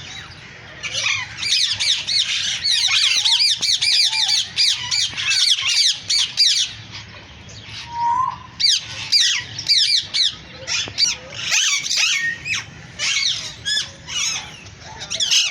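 Several parrots chattering and squawking together in a dense stream of fast, shrill chirps. After about seven seconds the stream breaks into more separate calls.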